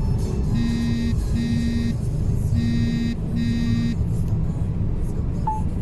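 Mercedes-Benz Actros truck's diesel engine running with a steady low rumble inside the cab, over which four short flat-pitched beeps sound in two pairs, each about half a second long.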